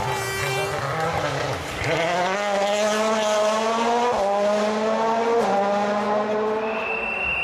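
A World Rally Car's 1.6-litre turbocharged four-cylinder engine is driven hard on a rally stage. The engine note climbs and then drops sharply several times, about two, four and five and a half seconds in. A thin high whine comes in near the end.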